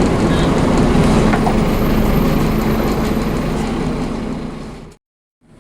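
Scania DC9 five-cylinder diesel of a double-decker bus running loud and steady under power, with its drivetrain rumble. It fades away about four seconds in and cuts to silence for half a second before the sound comes back in.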